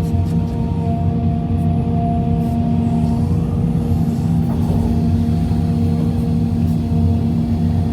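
Heavy diesel engine running with a steady low drone.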